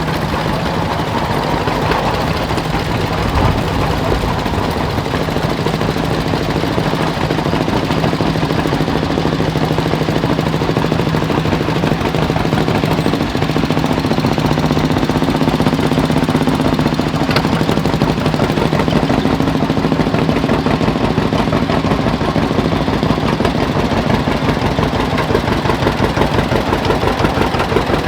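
Tractor engine running steadily, its rapid, even firing pulses and low hum continuous throughout.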